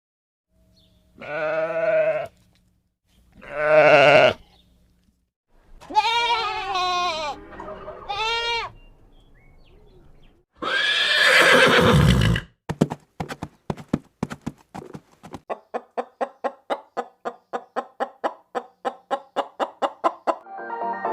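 Recorded farm animal calls, one after another: two short pitched calls, then a wavering call that bends up and down, then a loud rough call. A long run of quick, even pulses follows, about four a second.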